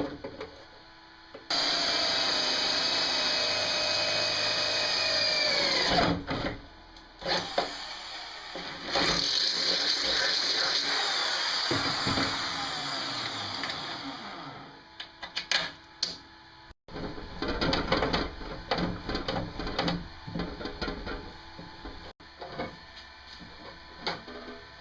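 Handheld power drill run twice for several seconds, its motor whine dropping in pitch as the trigger is released each time, followed by scattered clicks and knocks of tools and parts being handled.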